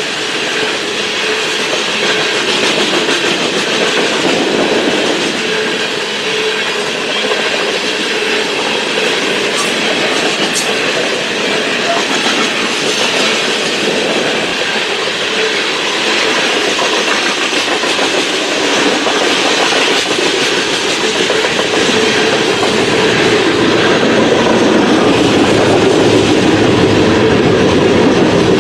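Freight train cars rolling steadily past, wheels clicking over the rail joints, getting slightly louder near the end.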